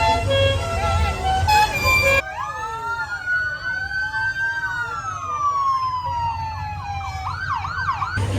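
Festival music plays for about two seconds, then after an abrupt cut a siren wails: several tones slide slowly up and down at once, switching near the end to a fast yelp of quick repeated sweeps.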